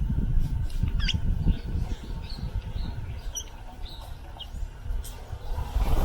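Small wild birds chirping at a feeding station: short, scattered high calls, with one quick falling call about a second in. Under them runs a loud, uneven low rumble.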